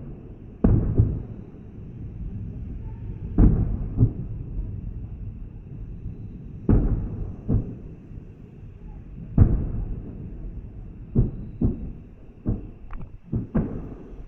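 Aerial fireworks shells bursting, heard as a series of sudden booms, each with a long rolling tail, followed near the end by a quicker run of smaller bangs.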